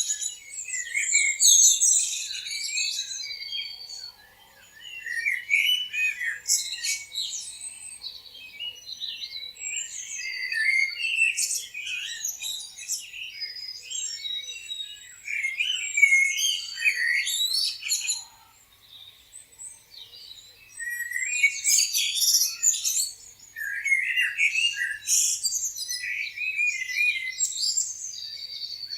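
Many small songbirds chirping and twittering at once, a dense chorus of short, high overlapping notes and trills. It thins out briefly about two-thirds of the way through.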